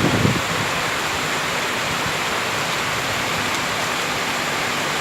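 Heavy rain falling steadily in forest, an even hiss. A low rumble at the very start dies away within the first half second.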